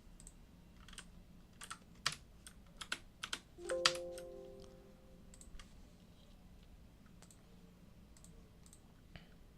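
Computer keyboard keys and mouse clicks, a quick cluster of sharp clicks in the first few seconds, then only a few scattered ones. About four seconds in, a short pitched ringing tone sounds and fades over about a second.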